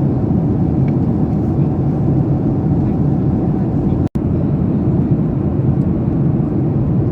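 Steady in-cabin noise of a Boeing 737-800 airliner: a constant low rumble of the engines and airflow, broken by a split-second dropout about four seconds in.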